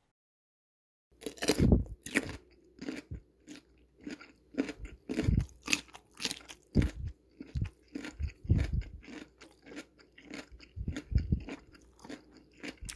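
Someone biting and chewing finished chonggak kimchi (ponytail radish kimchi), the radish crisp and crunchy. Irregular crunches begin about a second in and go on at roughly one or two a second.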